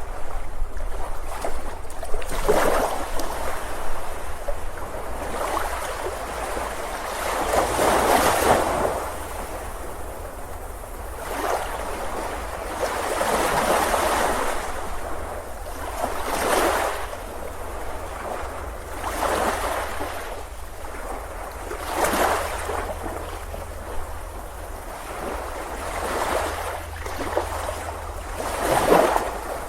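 Ocean surf breaking on a beach, a wave washing in and falling away every few seconds, over a steady low rumble.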